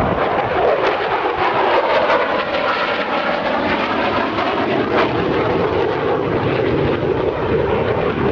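F-16 fighter jet's engine noise, loud and steady, a dense rushing sound with no breaks.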